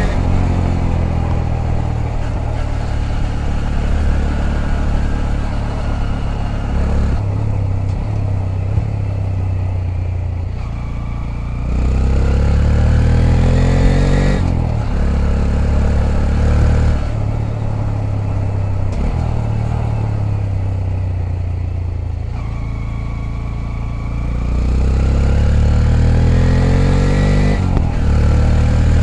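Honda Grom's 125 cc single-cylinder four-stroke engine running under way, its pitch climbing as it accelerates and dropping back at each gear change, several times over. It runs louder and harder about halfway through and again near the end.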